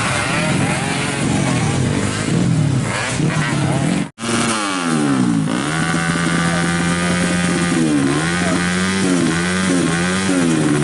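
Racing motorcycle engines revving, their pitch rising and falling repeatedly through gear changes. The sound cuts out abruptly about four seconds in, then comes back with a falling pitch, a steady stretch, and several quick rises and falls.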